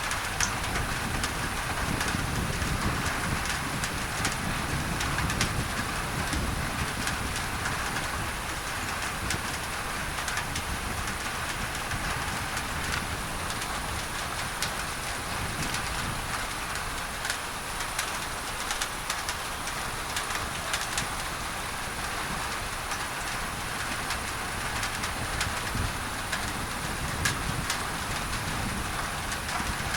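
Steady rain drumming on a tin roof, with many sharp drop ticks, blended with a constant pink-noise hiss used as a tinnitus masker. A low rumble comes and goes underneath.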